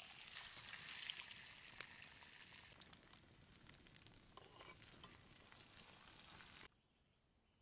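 Food sizzling and spitting in a hot pan, a dense crackling hiss that is loudest for the first few seconds, eases a little, then cuts off abruptly near the end.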